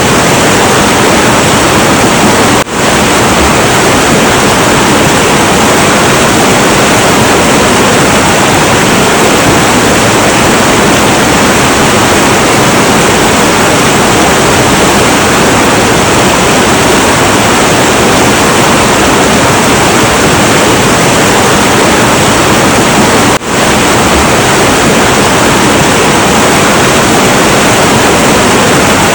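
Heavy, turbulent river water rushing in a steady, loud roar, with no break except two split-second dips in level.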